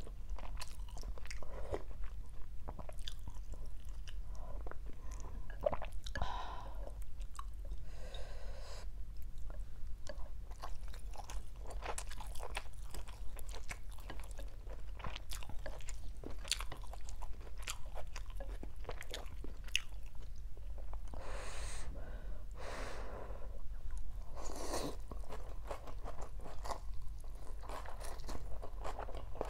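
Close-miked chewing of rice noodles and raw vegetables (bean sprouts, shredded water spinach, lettuce), with many small crisp crunches. A few longer breathy sounds come about a quarter of the way in and again past the two-thirds mark.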